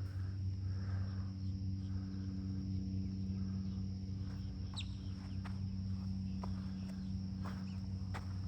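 Insects trilling steadily at a high pitch over a steady low hum, with footsteps on the trail coming in as scattered clicks from about halfway through.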